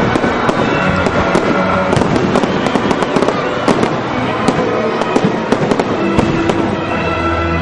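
Fireworks display going off in a rapid run of sharp cracks and bangs, several a second, with music of steady held notes playing underneath.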